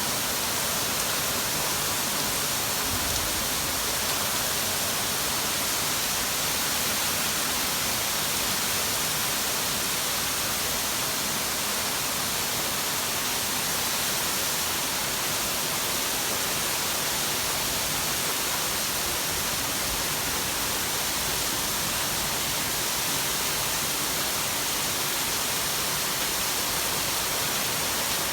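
Heavy rain pouring down in a downpour: a steady, even hiss.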